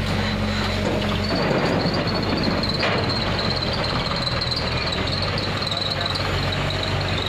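Diesel engine of earth-moving machinery running steadily, with a high whine held over it and a rougher rush of noise starting about a second and a half in.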